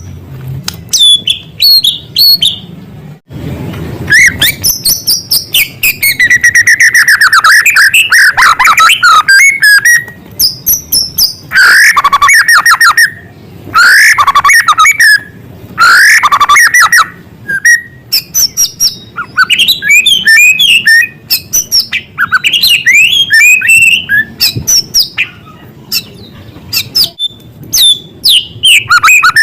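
White-rumped shama (murai batu) singing loudly without a break. Its varied song mixes ringing whistled phrases, fast trills and clicky chatter, filled with mimicked small-bird calls.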